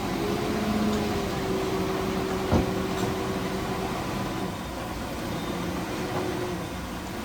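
Heavy earthmoving machinery's diesel engine running steadily with a held note, and a single sharp metallic clank about two and a half seconds in.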